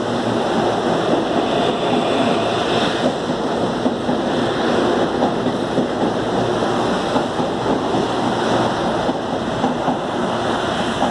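CAF series 7000 electric multiple-unit train running along the track, a loud steady rolling rumble with small irregular knocks.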